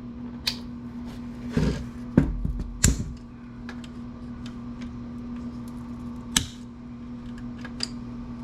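Hard plastic and metal computer parts clicking and knocking as they are handled and pried at, with a cluster of knocks in the first few seconds and a single sharp one later, over a steady low hum.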